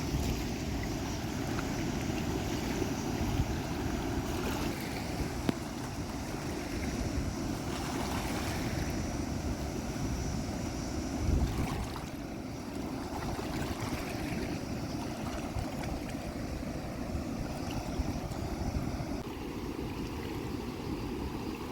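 Flowing stream water running steadily, with wind rumbling on the microphone.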